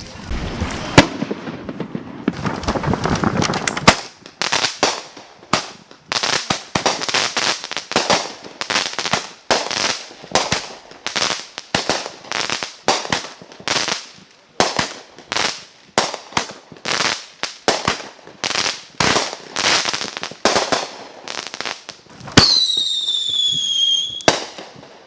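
Fireworks going off in a long string of sharp bangs, roughly two a second, after a few seconds of hissing. Near the end a whistling firework gives a falling whistle.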